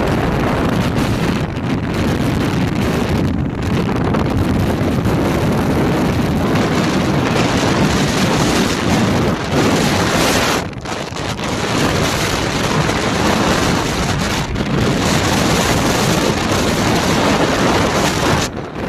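Wind buffeting the microphone: a loud, uneven rushing that drops out briefly about eleven seconds in.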